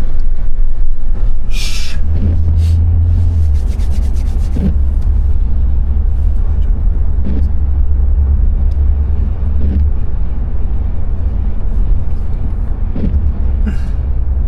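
Car interior driving noise: a steady low road and engine rumble, with a brief hiss near the start and a few faint knocks spaced a couple of seconds apart.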